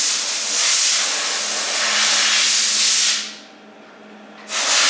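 Loud steady hiss of escaping air or gas, which cuts off about three seconds in and starts again near the end, over a faint steady low hum.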